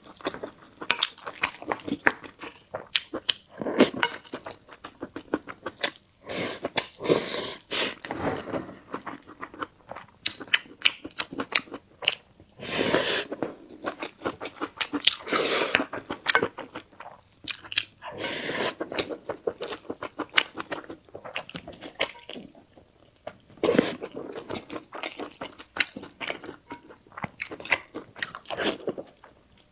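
Close-miked chewing and biting of food, with wet mouth clicks and crunches coming thick and irregular, and a louder noisy stretch every few seconds.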